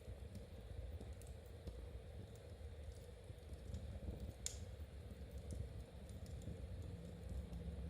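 Knitting needles clicking lightly and irregularly over a low steady rumble, with one sharper click about four and a half seconds in.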